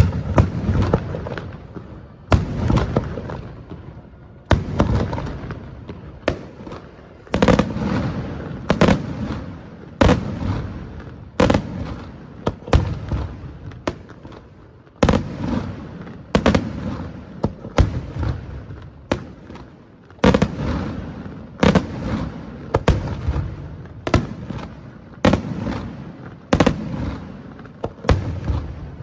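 Daytime fireworks display: a steady run of loud firework bursts, about one every second and a half, each bang followed by a rumbling echo that fades before the next.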